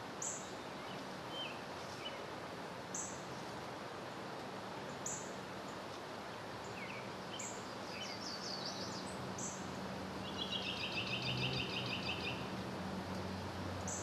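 Outdoor ambience with wild birds calling: a short high note repeated about every two seconds, scattered chirps, and a rapid trill a little after the middle, over a steady background hiss and faint hum.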